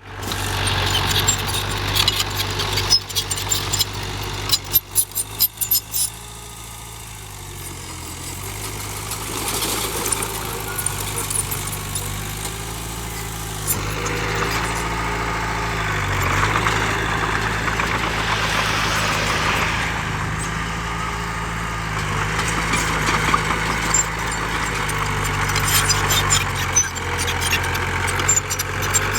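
Heavy diesel machinery running steadily, with a rapid run of clattering knocks in the first several seconds and the engine note growing louder and rougher about halfway through.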